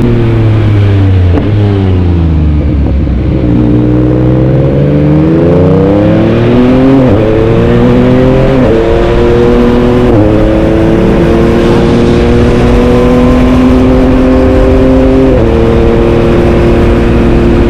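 Yamaha MT-09's three-cylinder engine under load. The revs fall at first, then climb as it accelerates, with a few sudden pitch jumps. The revs hold steady for several seconds, then drop sharply near the end.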